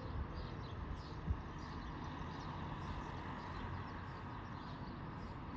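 Gusty wind blowing across a phone microphone, a steady low rumble with a faint hiss above it, and one small knock about a second in.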